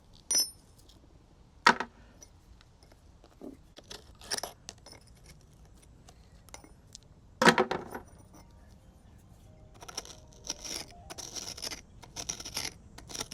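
Hammer-struck steel chisel chipping crumbling mortar from between flagstones: sharp metallic clinks at irregular intervals, the loudest about halfway through. Quicker scraping and rasping of loosened mortar follows near the end.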